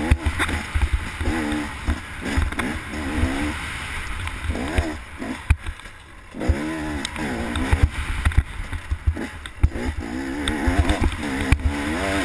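Off-road motorcycle engine revving up and dropping back again and again with the throttle while riding a rough trail, with thumps and wind rumble on the microphone.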